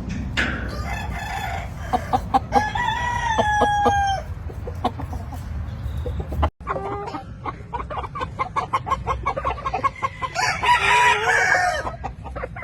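Gamefowl roosters crowing, one long crow a little after two seconds in and another near the end, with short clucks and clicks in between.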